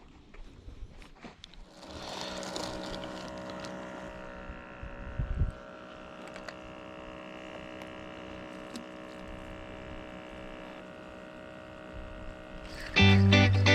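A small motor humming steadily, starting about two seconds in and holding one unchanging pitch, with a brief low thump partway through. Guitar music comes in near the end.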